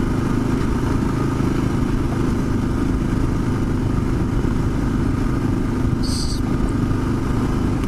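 Kawasaki KLR650 single-cylinder four-stroke engine pulling steadily under load on an uphill climb, the motor working at an even pitch. A brief high chirp about six seconds in.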